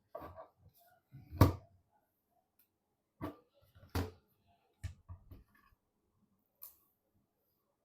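Computer parts being handled during assembly: a few separate knocks and clicks. The loudest knock comes about a second and a half in, with another about four seconds in.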